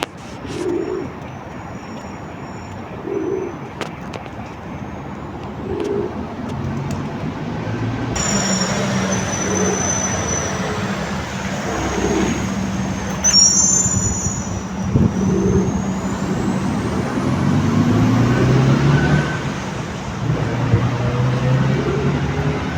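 Pigeons cooing, short low calls repeating every two to three seconds, over a steady low hum of traffic.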